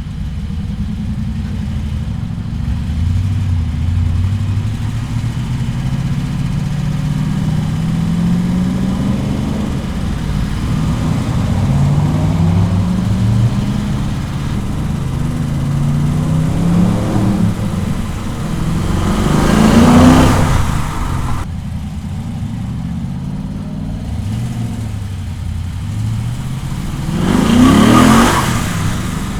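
LS V8 engine of a Nissan 240SX running under way, its pitch climbing and falling through the gears. There are two hard accelerations, about two-thirds of the way in and again near the end, where the engine note rises steeply and is loudest.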